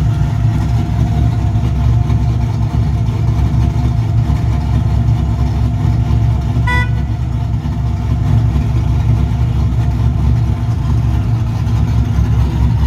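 Cammed 6.0-litre LS V8 of a 2001 Camaro Z28 idling through its warm-up with an uneven, choppy lope from the aftermarket 227/231 camshaft. A short beep sounds about two-thirds of the way through.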